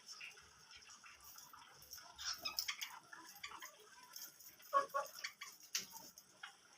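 Small cage birds, finches and budgies, giving short soft chirps among light scattered ticks and clicks, with a louder pair of chirps just under five seconds in.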